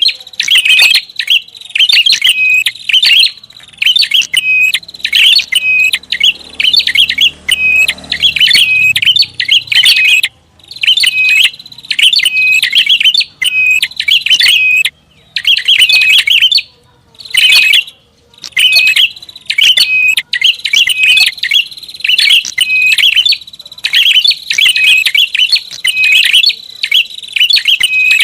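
Prinia (prenjak) calling in a rapid, busy stream of sharp chirping phrases with only brief pauses. This is a lure call of the kind played to attract prinias.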